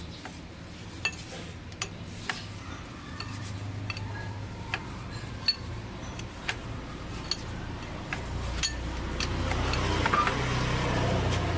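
Metal tools and parts clinking and tapping irregularly, over a low hum that grows louder in the second half.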